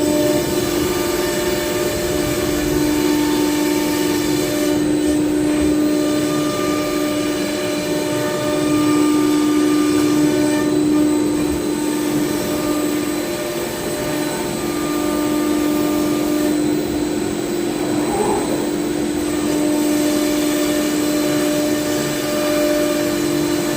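ShopSabre Pro 510 CNC router spindle cutting 1-inch MDF: a steady whine over a rushing noise, varying little in level.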